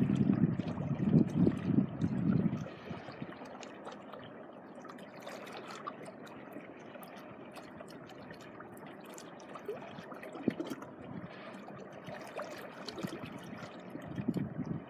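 Small waves washing onto the beach: a louder wash in the first couple of seconds, then a quieter trickling hiss with fine crackles, building again near the end.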